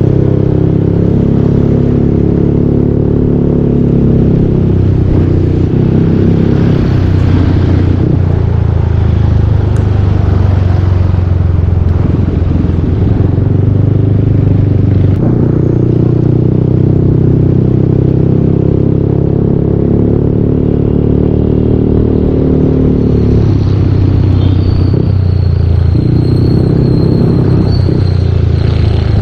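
Yamaha Aerox 155 V2 scooter's single-cylinder engine running through a full Yoshimura aftermarket exhaust while riding. Its exhaust note rises and falls with the throttle, dipping around a third of the way in and again near the end.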